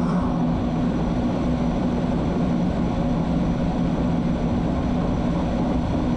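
FPV racing quadcopter's brushless motors and propellers buzzing steadily, a low steady hum under a hiss.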